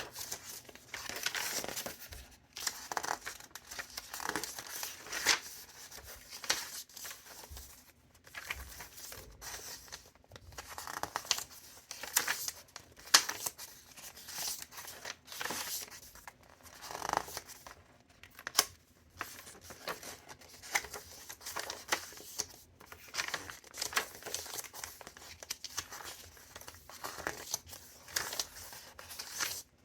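Paper pages of a thick handmade junk journal being turned one after another, with irregular rustles and swishes of paper.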